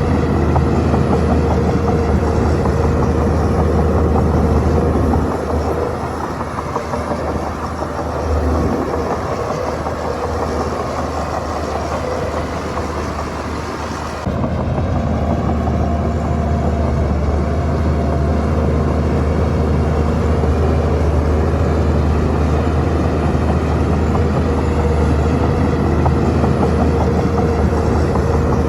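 Shantui bulldozer's diesel engine running with a steady low drone. It drops somewhat quieter from about five seconds in, then comes back up suddenly about halfway through.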